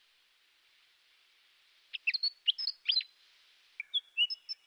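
Birdsong: quick phrases of short, sharp chirps and whistles, starting about two seconds in over a faint hiss.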